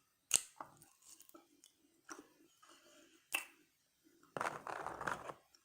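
Close-miked chewing of French fries, soft and regular, with a couple of sharp mouth clicks. Near the end there is a louder burst of noise lasting about a second.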